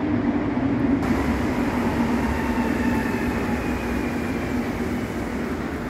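Metro train running, a steady loud rumble with a faint whine that slowly falls in pitch; the noise brightens about a second in and eases off near the end.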